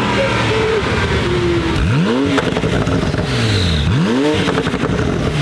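Porsche 991 Turbo S twin-turbo flat-six with an Akrapovic exhaust revved in two quick blips about two seconds apart, the pitch shooting up and falling straight back each time, with a short run of crackles after the first blip.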